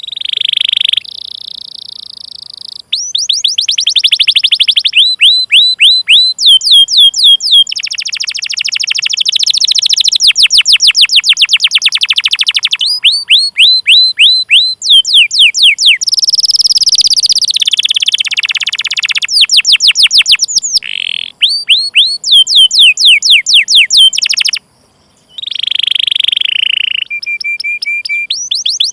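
Domestic canary singing: fast trains of repeated sweeping 'cuit cuit' chirps alternating with rapid rolling trills, with brief pauses between phrases.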